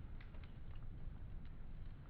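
Wood fire crackling, with irregular small pops and snaps over a steady low rumble.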